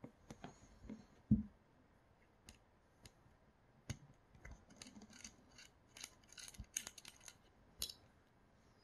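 Small clicks, taps and scrapes of hand tools and small parts being handled while a Creality Sprite 3D-printer extruder is taken apart. A dull knock about a second in is the loudest sound, and a quick run of light metallic clicks follows in the second half.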